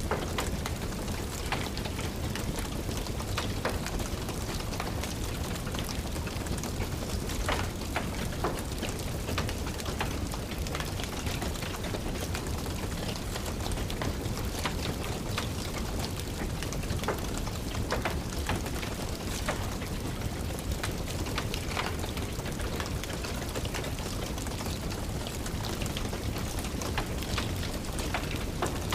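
Steady rain falling, with a fireplace fire crackling: scattered sharp pops and snaps over an even hiss.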